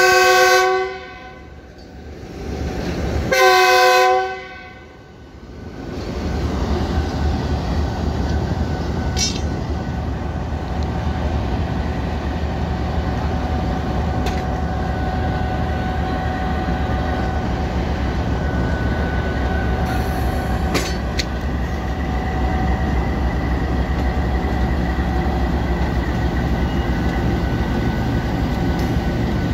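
GEU-20 (GE U20C) diesel-electric locomotive's horn: a blast that ends about a second in, then a second blast about three seconds in. From about six seconds the locomotive and its passenger coaches rumble steadily past, with a few clicks of wheels over rail joints.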